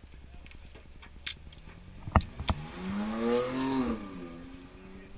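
A few sharp clicks, then the BMW M235i Racing's turbocharged straight-six engine rises in pitch, holds for about a second and falls back, settling to a steady idle.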